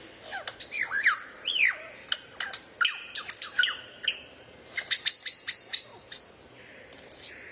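Songbird calling: sharp chirps and swooping whistles, then a quick run of short ticking notes, about five a second, from about five seconds in. The recording cuts off suddenly at the end.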